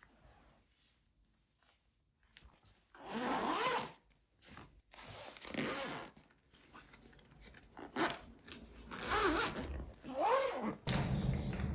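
A zipper being pulled open and shut in several separate strokes, each a short rasping zip that sweeps up or down in pitch.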